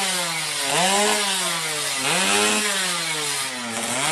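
Motorcycle engine being blipped, its pitch rising and sagging back about three times without climbing far. The rider says the engine is sulking and will not rev up.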